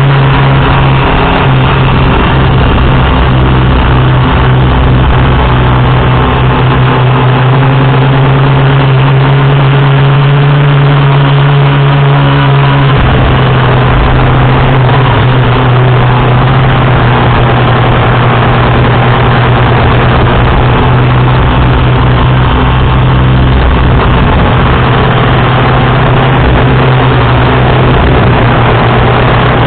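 FPV quadcopter's electric motors and propellers heard in flight, a loud steady hum with a noisy rush behind it. The tone shifts once, about thirteen seconds in.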